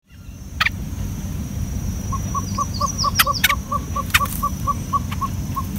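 A bird calling a run of short, even notes at about four a second, starting about two seconds in, with a few high chirps and several sharp clicks, over a steady low rumble.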